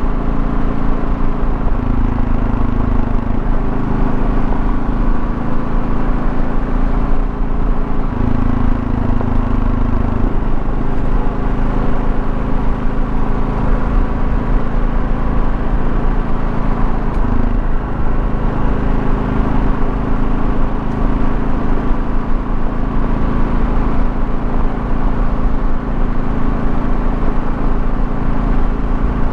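2024 Kawasaki KLR650's single-cylinder engine running steadily under way, with road noise, its low note shifting a few times.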